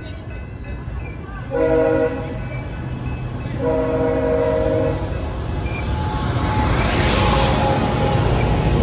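Passenger train locomotive horn sounding a chord, a short blast followed by a longer one, then the rumble and rail noise of the train passing close, growing louder toward the end.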